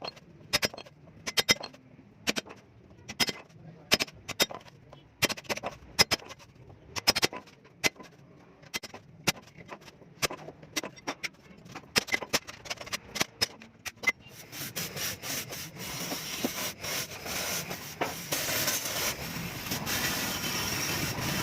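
Sharp metal taps or light hammer blows on clutch-plate parts, irregular at two or three a second; about fourteen seconds in, a machine starts running with a steady rasping, grinding noise.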